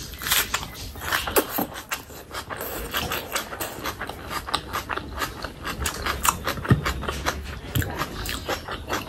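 Close-miked wet chewing and lip-smacking of a hand-fed mouthful of rice and raw onion, a dense run of quick clicks and smacks.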